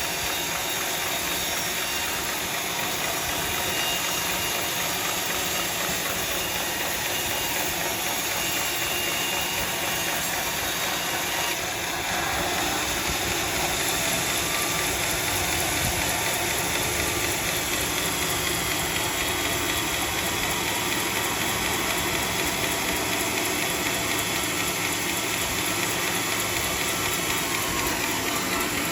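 Sawmill saw running and cutting through teak, a steady dense mechanical noise that grows a little louder about twelve seconds in.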